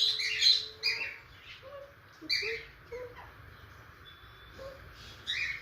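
Budgerigar chirping in short, raspy bursts: a quick cluster in the first second, another about two and a half seconds in, and one more near the end.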